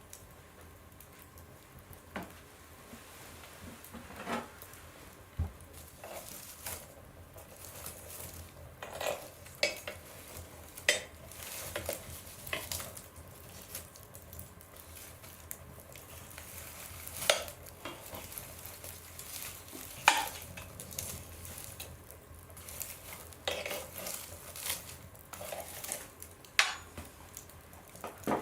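Wood fire burning in a stove, crackling: irregular sharp pops and snaps over a soft steady hiss, a few of them much louder than the rest.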